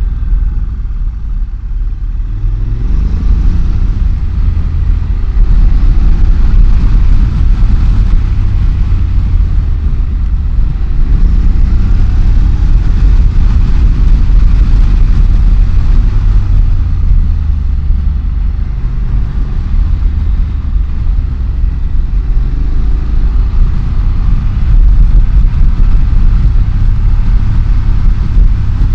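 Motorcycle with a dual-clutch (DCT) automatic gearbox riding a winding mountain road, heard from the rider's position. The engine note rises and falls several times as it accelerates and shifts between bends, over a steady rumble of wind and road noise.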